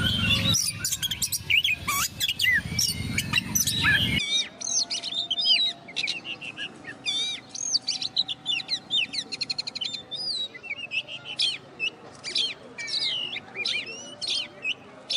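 Oriental magpie-robin (kacer) in full song: a rapid, varied run of loud whistles, sweeping chirps and a fast rattling trill. The first few seconds sit over a low rumble, and about four seconds in the sound switches abruptly to a cleaner recording.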